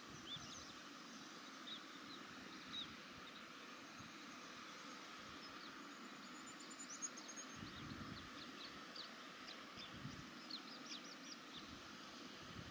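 Faint, short, high-pitched bird calls over a low steady hiss. The calls are scattered and come more often in the second half, with a brief trill about seven seconds in.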